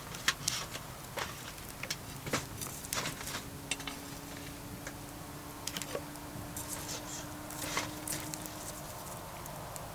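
Wood campfire crackling, with irregular sharp pops and snaps; the loudest comes about a third of a second in.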